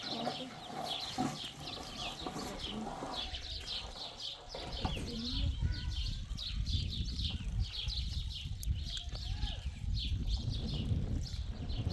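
Small birds chirping rapidly and repeatedly in short, high, falling peeps. A low rumbling noise comes in about halfway through.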